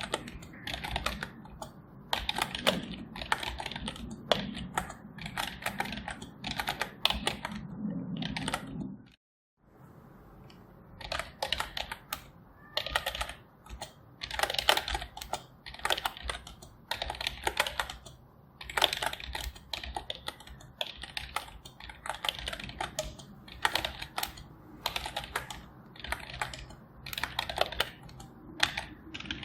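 Typing on a computer keyboard: rapid flurries of keystroke clicks with short pauses between runs. The sound cuts out completely for about half a second about nine seconds in, then the typing resumes.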